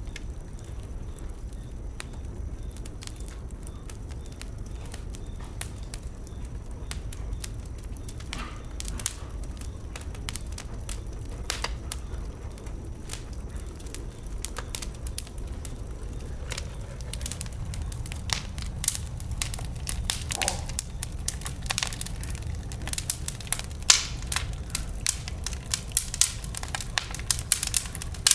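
Bonfire of burning wood crackling over a steady low rumble, the sharp pops growing louder and more frequent in the second half.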